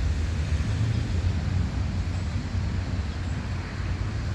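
Steady low rumble with a fainter even hiss above it: continuous outdoor background noise, with no distinct calls or impacts.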